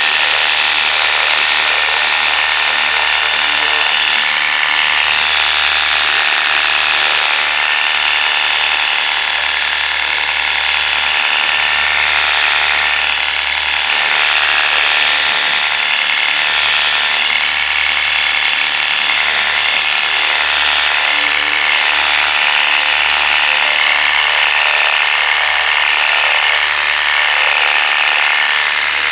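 Worx WG633 Hydroshot cordless pressure washer spraying continuously through its 15-degree nozzle: the electric motor and pump run steadily under the loud hiss of the water jet.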